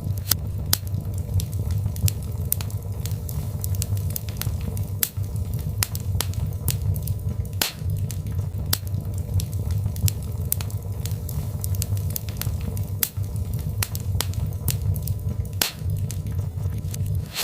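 Birch logs burning in a fireplace: a steady low rumble of flame with frequent irregular crackles and pops, two louder pops about eight and sixteen seconds in.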